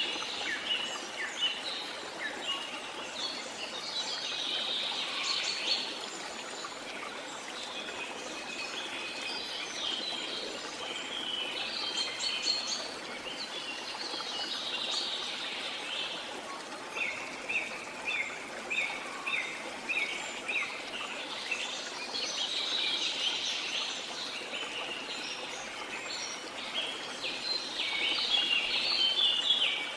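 Several birds singing and calling over a steady rush of flowing water. Midway, one bird repeats a short note about twice a second for a few seconds.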